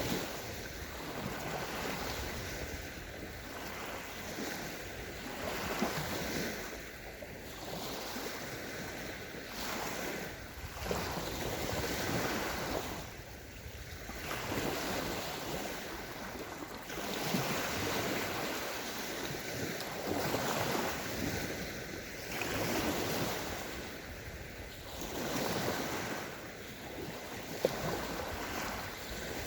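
Small sea waves breaking and washing up a sandy beach, swelling and fading every two to three seconds.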